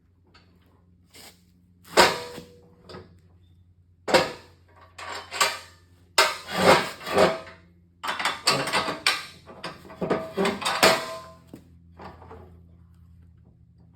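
Irregular metallic clanks, knocks and clattering as steel parts of a homemade lawn-tractor plow are handled and moved about, in bursts with the busiest stretch between about 6 and 11 seconds in, over a faint steady low hum.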